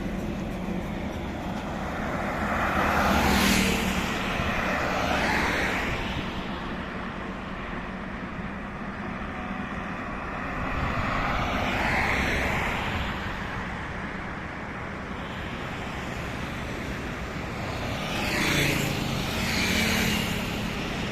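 Highway traffic: a steady low engine and tyre rumble, with about five vehicles passing one after another, each swelling and fading as it goes by.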